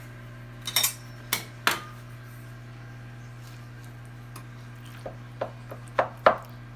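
Metal utensils clinking and tapping against a baking dish: a few sharp clinks in the first two seconds, then a quick cluster of them near the end.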